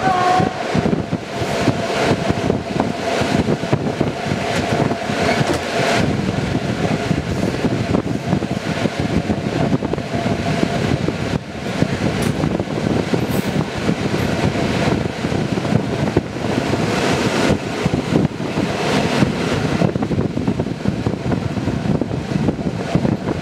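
Passenger train carriage rolling through station tracks: wheels clattering over rail joints and points under a steady rush of running noise, with a thin steady squeal during the first several seconds.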